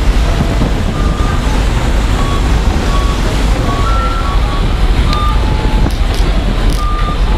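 Loud, steady low rumble with short electronic beeps at several different pitches scattered through it, like reversing alarms of several vehicles moving around a ferry's car deck.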